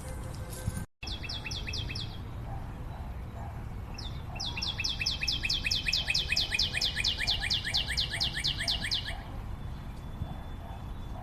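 A songbird repeating a quick falling chirp about five times a second, in a short run and then a longer one of around five seconds; the sound drops out completely for a moment about a second in.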